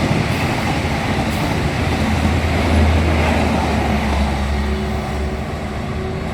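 Train running through the station: a loud, steady rumble with a deep hum that swells about two seconds in and eases off near the end.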